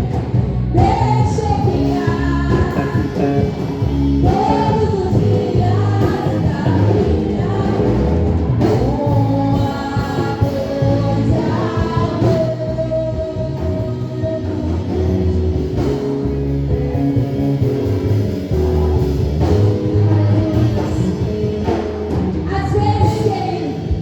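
Gospel worship song performed live: a singing voice over band accompaniment with guitar and a steady beat.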